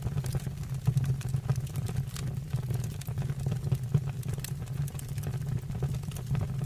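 Wood fire burning in a stove or fireplace: a steady low rumble with frequent, irregular sharp crackles and pops from the burning wood.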